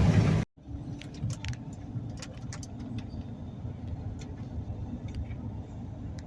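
Steady low rumble of a vehicle on the road, heard from inside, with scattered light clicks and small jingles over it.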